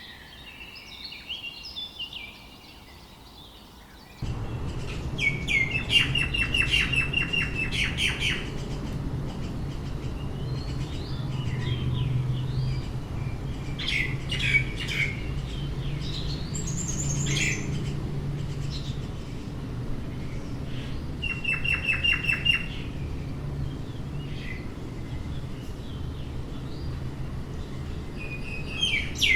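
Forest birds singing and calling, with a fast trill of repeated notes heard twice among other chirps and whistles. About four seconds in the sound changes abruptly to a louder recording with a steady low rumble under the birdsong.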